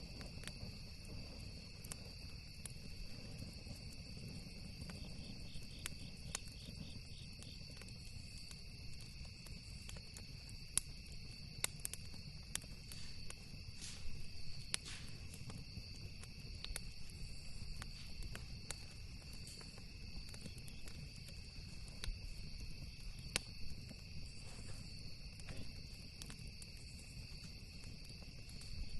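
Crickets chirring steadily and shrilly throughout, with scattered sharp crackles and pops from a campfire and a low, even rumble underneath.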